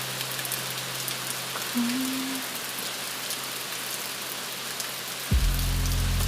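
Steady rain hiss with light drop patter. About five seconds in, a deep low sound comes in suddenly and much louder under the rain.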